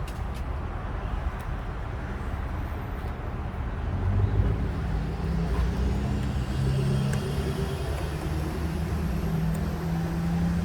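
A motor vehicle engine running, a steady low rumble that picks up a humming note shifting in pitch about four seconds in, with a faint high whine rising slowly through the second half.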